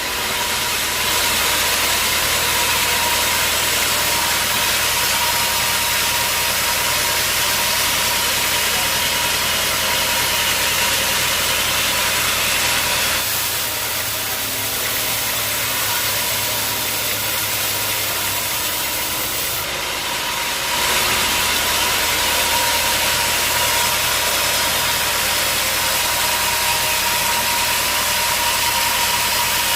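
Sawmill machinery running steadily: a low engine hum under a continuous hiss and a thin, steady high whine. The sound shifts for several seconds about halfway through, then settles back.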